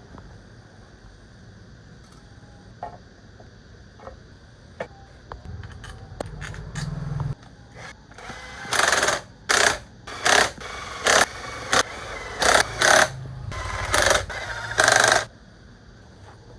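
A power tool run in about nine short, loud bursts over several seconds, starting about halfway through, after a few light clicks of tools being handled.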